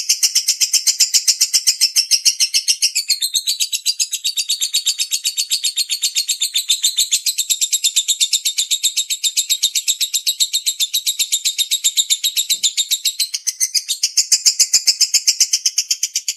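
Lovebird 'ngekek panjang': one long, unbroken chattering trill made of a rapid, even string of sharp high-pitched notes, as used in masteran recordings to train songbirds.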